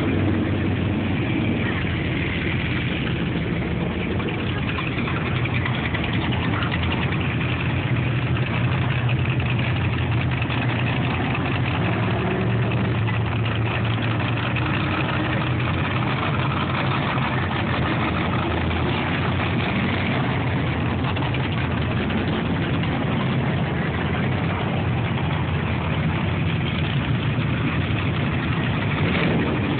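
Car engine idling steadily, a continuous low hum that holds at the same level throughout.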